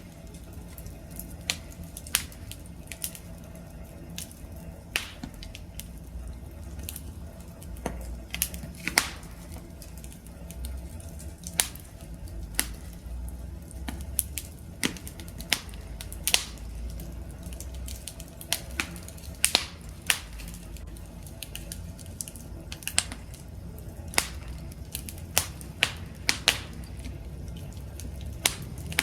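Wood campfire burning and crackling, with sharp irregular pops over a steady low rumble of the flames.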